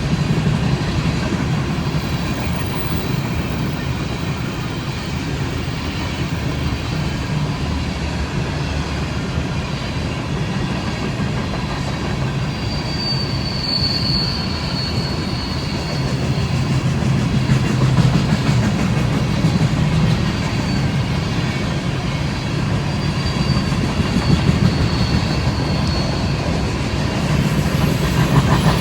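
Freight cars of a BNSF coal train rolling past, a steady low rumble of steel wheels on rail with clacking at the rail joints. There is a brief high wheel squeal about halfway through.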